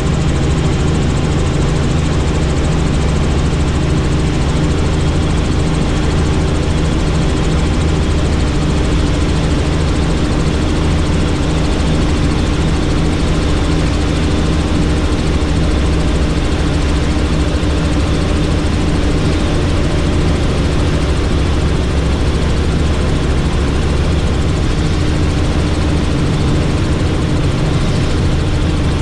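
Helicopter in steady flight: the rotor and turbine make a constant loud drone with a low hum, unchanging throughout.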